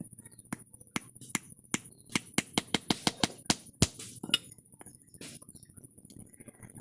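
Light hammer taps on steel: a run of sharp, uneven taps that quicken to about three a second in the middle, with a couple of short scraping strokes near the end.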